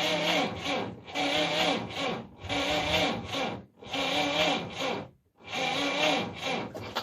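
A UAZ's cold engine being turned over by hand with a starting crank. There are five slow turns, each a long rasping, squeaking stroke, with short pauses between them.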